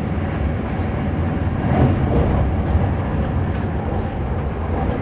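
Passenger train running at speed, heard from inside the carriage: a steady low rumble of wheels on rails, swelling briefly about two seconds in.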